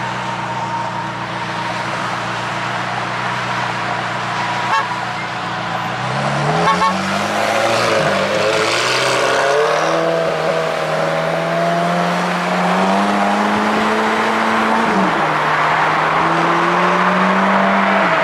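McLaren 720S's twin-turbo V8 running at low revs, then pulling away about six seconds in. Its pitch rises as it accelerates and drops back twice near the end at gear changes, over road and wind noise.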